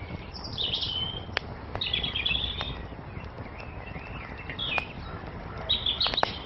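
Songbirds chirping in four short, quick phrases, over a wood fire crackling with a few sharp pops and a steady low rumble.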